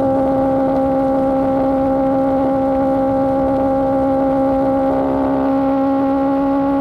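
Superbike engine through an aftermarket AR GP1R exhaust, holding steady revs while cruising, with an even, unchanging exhaust note.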